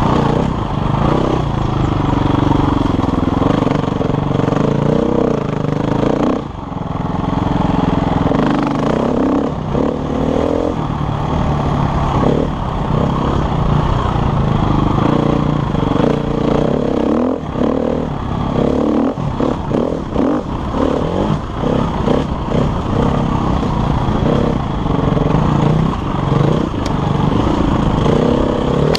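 KTM enduro motorcycle engine running hard on a rough trail, its pitch rising and falling as the throttle opens and closes. The throttle shuts briefly about six seconds in. A run of short, choppy on-off bursts comes about two-thirds of the way through.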